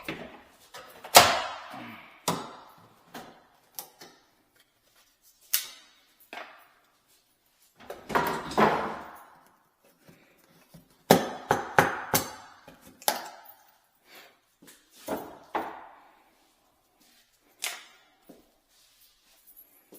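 Irregular knocks and clatters of tools and parts being handled, several of them ringing briefly.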